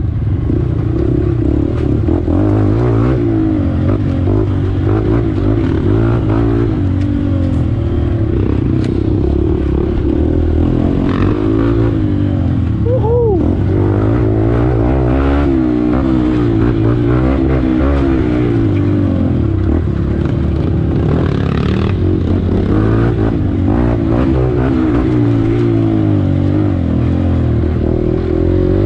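KTM adventure motorcycle engine running hard, its revs rising and falling over and over as it is ridden along a hilly trail.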